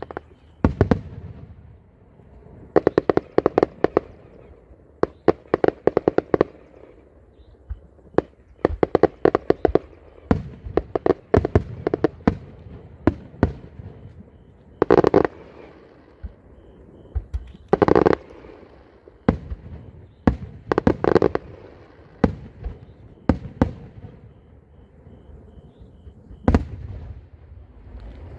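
Aerial fireworks bursting overhead: volleys of rapid sharp bangs and crackling, with pauses between, and a few heavier single booms that echo.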